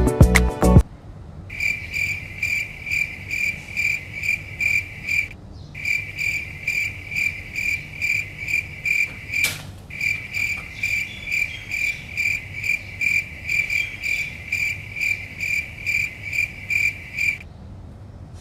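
Cricket chirping steadily, about two chirps a second, with a short break about five seconds in and one sharp click near the middle.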